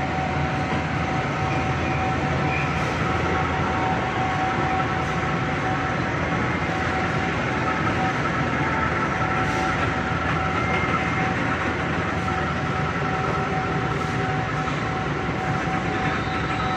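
Passenger train moving slowly as it pulls out of the station: a steady running rumble of the carriage with a steady high tone over it.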